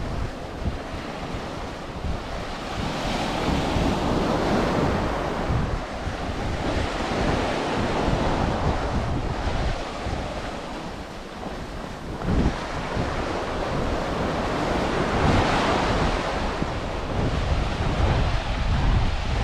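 Ocean surf breaking on a sand beach, waves swelling and washing in every few seconds, with wind buffeting the microphone underneath.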